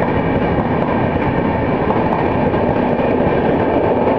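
The coaches of an Indian Railways Tejas Rajdhani express train passing at speed alongside the platform: a loud, steady rush and rumble of wheels on the rails.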